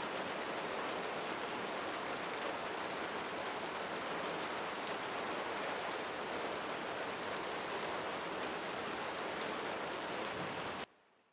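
Steady rain falling on leaves, an even hiss with faint scattered drop ticks; it cuts off suddenly near the end.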